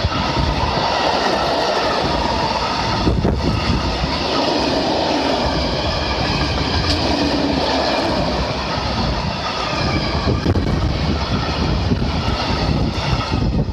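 Freight train of tank wagons rolling past, loud and steady, with a faint high ringing from the wheels on the rails.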